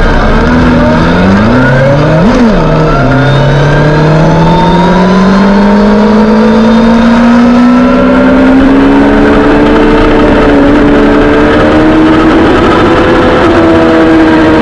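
Suzuki GSX-R sportbike's inline-four engine running: a quick rev up and back down about two seconds in, then the engine pitch climbing slowly and steadily as the bike accelerates.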